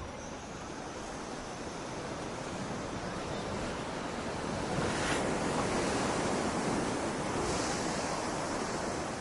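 Ocean waves washing in, with a surge that swells about five seconds in and holds.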